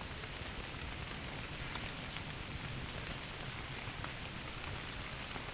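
Steady rain falling, with faint ticks of single drops landing throughout.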